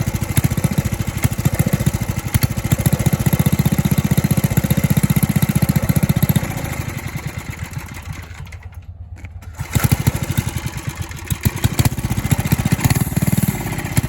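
Small single-cylinder minibike engine running with steady rapid firing, then dying away about six seconds in and nearly cutting out, before catching again and firing unevenly: the engine is stalling and struggling to keep running.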